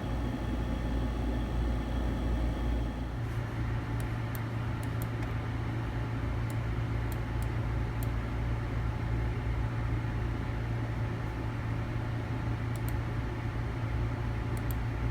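Steady electrical hum with fan-like noise from running bench equipment, its character shifting slightly about three seconds in, with a few faint small ticks here and there.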